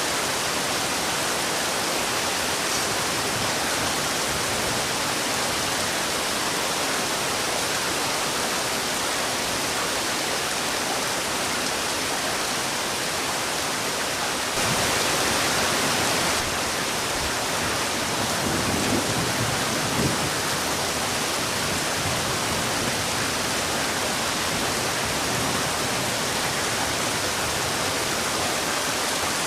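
Heavy rain falling in a steady, dense hiss, swelling briefly louder about halfway through, with a faint low rumble a few seconds later.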